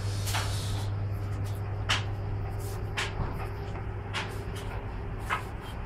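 A steady low hum with a handful of short, sharp clicks and knocks spaced a second or so apart, like parts being handled.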